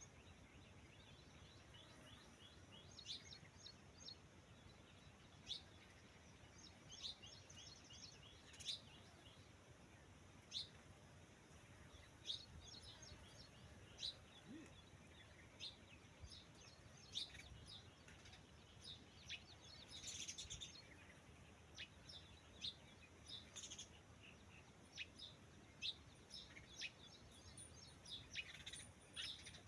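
Birds chirping: short, high calls repeating every second or two, over faint background noise.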